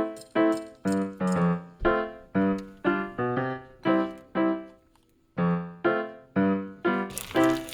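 Background piano music, a slow line of single notes about two a second with a short pause midway. Near the end a steady sizzling hiss comes in under the music.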